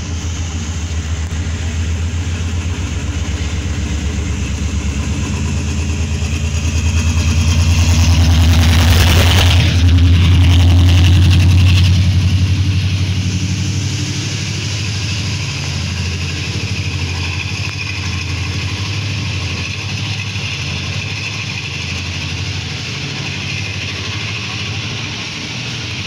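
Diesel locomotive engine running under throttle with a steady deep drone. It grows louder from about seven seconds in, peaks around ten seconds with a brief rush of noise, then settles back to a steady run.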